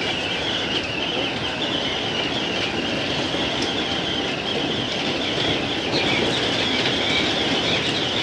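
JR East 205 series electric commuter train running along the line: a steady rumble of wheels on rail, with a wavering high squeal from the wheels over it.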